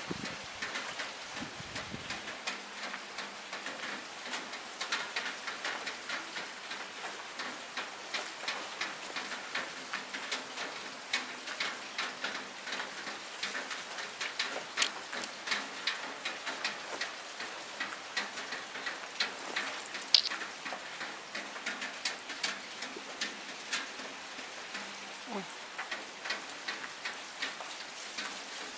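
Rain drumming on a window ledge: a steady hiss with many irregular drop taps, one sharper and louder than the rest about two-thirds of the way through.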